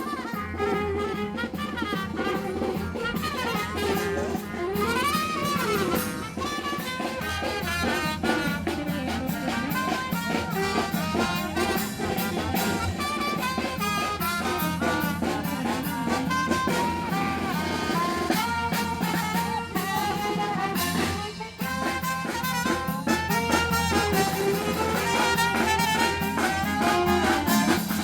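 A marching brass band playing live, trumpets and trombones carrying the tune over a steady beat, with a short break about three quarters of the way through before the playing resumes.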